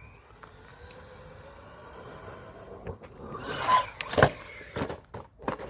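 Brushless electric motor of a JLB Cheetah RC buggy, geared with a 17-tooth pinion, whining with a slowly rising pitch as the car speeds away. Past the three-second mark come a scrabbling burst and a sharp loud crack, then a few lighter knocks, as the buggy crashes and tumbles over.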